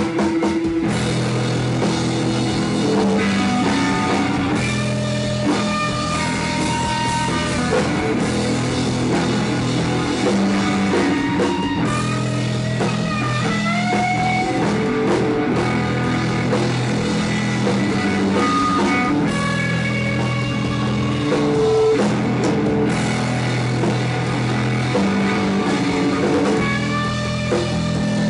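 Live psychedelic rock band playing an instrumental passage: electric guitars and bass over a drum kit, with sustained notes and sliding guitar lines.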